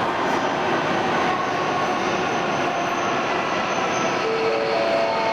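E2 series Shinkansen train moving along the platform, a steady rumble and rush of wheels and motors. Near the end a short run of tones steps upward in pitch.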